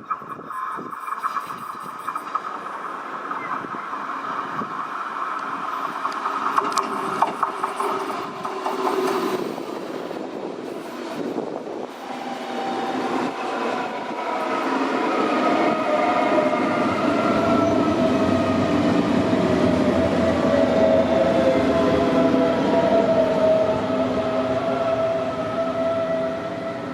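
Electric train running through a railway station, with a steady whine from its drive. It grows louder about halfway through, and a few of the whining tones slide slightly lower.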